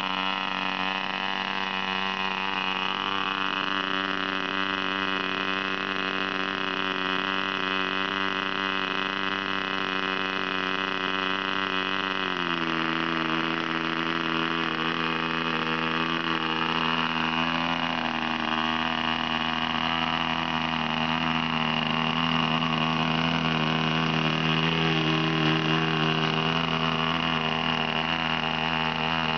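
OS Max 25 FP two-stroke glow engine on a model aeroplane running steadily at high speed. About twelve seconds in it drops slightly lower in pitch and runs on steadily at that speed.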